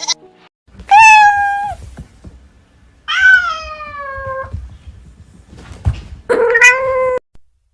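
A domestic cat meowing three times, each meow a drawn-out call lasting about a second; the second one falls in pitch.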